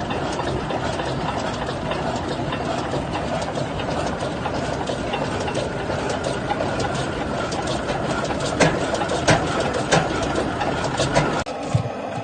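A heavy engine running steadily with a mechanical clatter and a few sharp clicks about two-thirds of the way through; the sound drops away suddenly shortly before the end.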